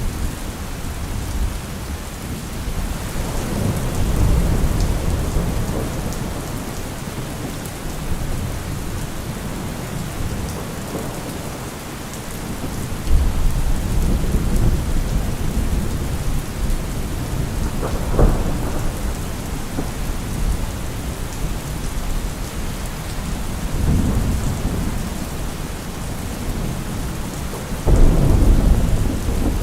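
Steady rain falling, with rolling thunder rumbling several times: a sharp crack about eighteen seconds in and a loud rumble near the end.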